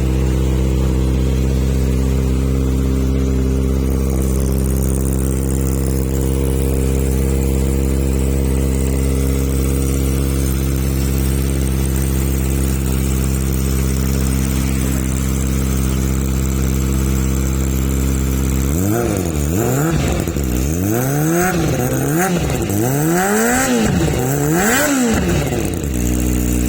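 Kawasaki Ninja ZX-25R's four-cylinder engine running through a Triton aftermarket exhaust, idling steadily, then blipped about four times in quick succession near the end, the pitch rising and falling with each rev before it settles back to idle.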